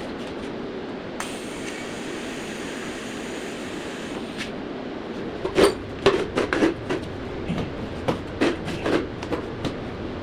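A run of about ten sharp knocks and clanks over a few seconds, starting about halfway through, over a steady hum. Before them comes a brief high hiss.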